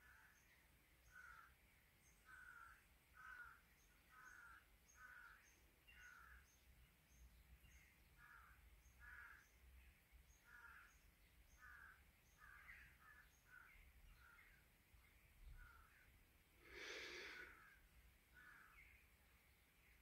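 Birds calling: a run of short calls at about one a second, with one louder, harsher call about three seconds before the end.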